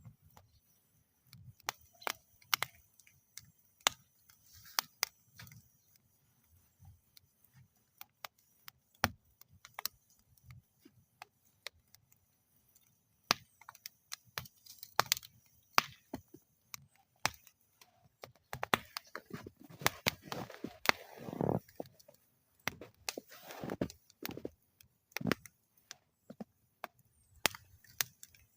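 Wood fire burning in a metal fire bowl, crackling with irregular sharp pops and snaps, busiest about two-thirds of the way through with a brief rushing flare.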